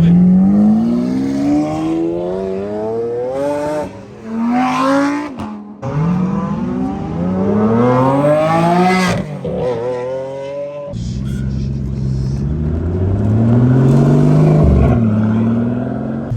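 Supercar engines accelerating hard, the engine note climbing steadily in pitch through the revs and dropping back at each shift or lift, in three separate pulls.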